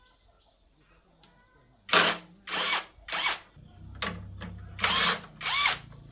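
A handheld power tool run in about six short bursts, starting about two seconds in.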